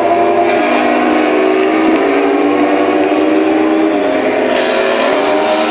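MotoGP racing motorcycles running at high revs. The engine pitch holds steady, dips slightly about two seconds in and again near four seconds, then climbs toward the end.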